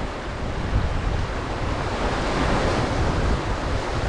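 Rough sea waves surging and breaking on the shore, with strong wind buffeting the microphone in a low, uneven rumble.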